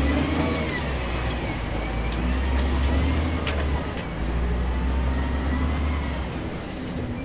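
Heavy diesel earth-moving machinery running with a deep, steady engine rumble and a faint wavering whine above it.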